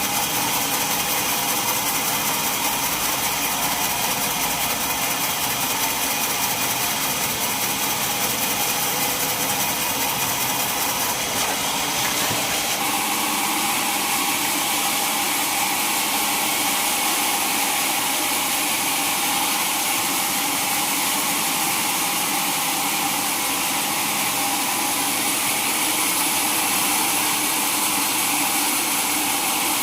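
Sawmill machinery running steadily, a continuous mechanical drone of several even tones, with a shift in tone about twelve seconds in.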